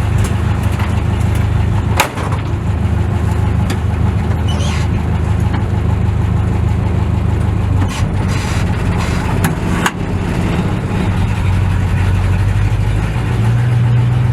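1956 Chevrolet Bel Air engine running steadily, with a step up in pitch near the end. Two sharp clicks sound about two seconds in and again about ten seconds in.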